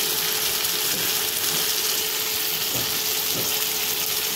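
Spiced onion masala with chopped tomatoes sizzling steadily in a kadhai, with a steady low hum underneath.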